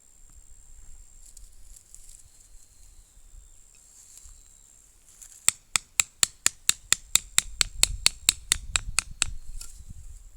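A rapid, even run of about eighteen sharp knocks, four or five a second, starting about halfway through and stopping shortly before the end, like a tool striking repeatedly.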